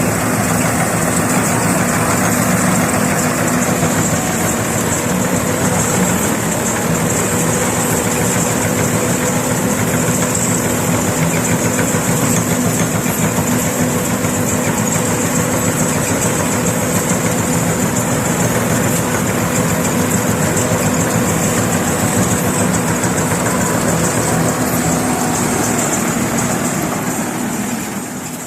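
Mahindra rice combine harvester's diesel engine running steadily, with a steady high whine over the engine note, fading out near the end.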